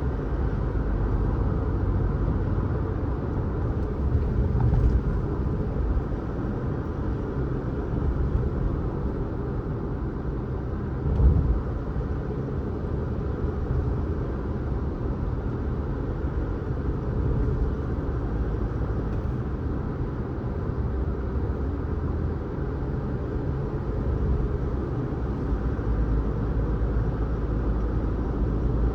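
Car driving on the road: steady low rumble of tyres and engine, with a short thump about eleven seconds in.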